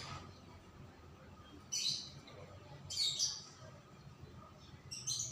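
Songbird chirping in short high calls, about three times a second or so apart.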